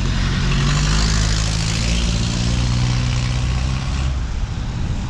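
A motor vehicle passing close by on a city street. Its engine hum and tyre hiss swell about a second in and fade around four seconds in.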